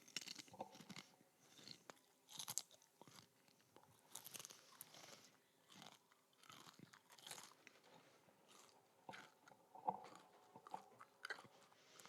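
Faint, irregular crunching and chewing of a mouthful of expired, five-year-old potato chips, several eaten at once.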